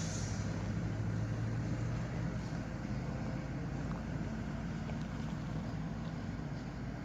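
Diesel-electric freight locomotives running steadily during switching moves, a low engine hum that is strongest in the first two seconds.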